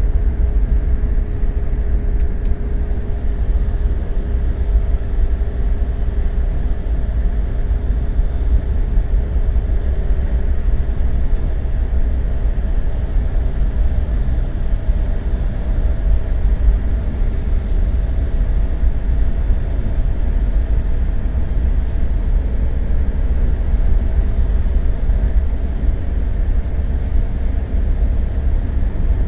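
GAZ-21 Volga car running, a steady low rumble with a faint even hum over it.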